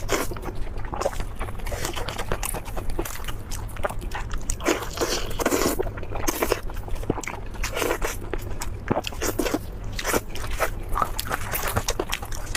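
Close-miked eating: a steady run of crunching bites and chewing of food, many short crisp clicks and crunches one after another.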